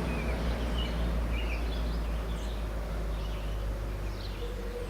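Faint, scattered chirps of small birds over a steady low rumble. A steady hum comes in near the end.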